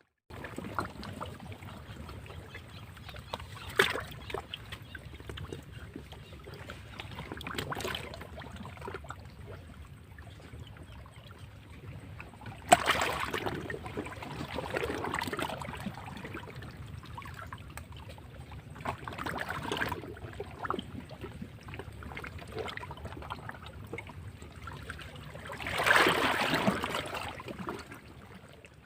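Sea waves washing over rocks: a continuous rush of water, with a louder wave breaking every few seconds and the biggest surge near the end.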